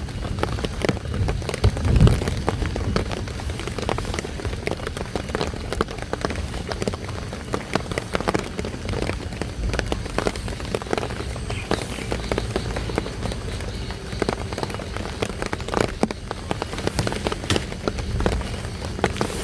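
Heavy rain falling steadily, with many individual drops striking a surface close by in a dense patter. A low rumble swells in the first couple of seconds.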